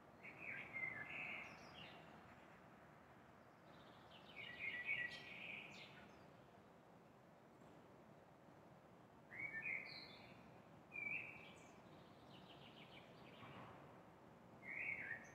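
A songbird singing short bursts of quick chirping phrases, about five of them a few seconds apart, over a steady low hum of distant city noise.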